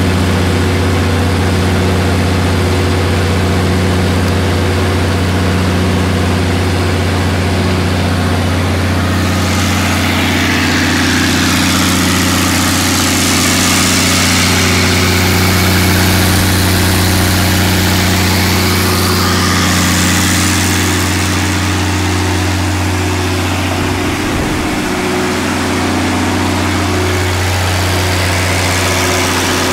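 The Allis-Chalmers diesel engine of an Onan 250 kW generator set running steadily at constant speed: a strong low hum with a rushing hiss that swells about a third of the way in and then eases.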